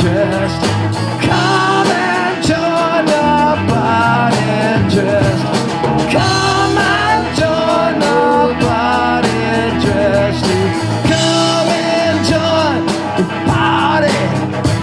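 Live rock band playing an instrumental stretch between sung lines: electric guitar and bass over a steady drum beat.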